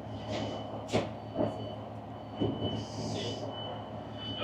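Diesel multiple-unit train standing at a station, heard from inside the carriage: a steady low engine hum with a faint steady high tone. A few sharp clicks and short hisses sound over it.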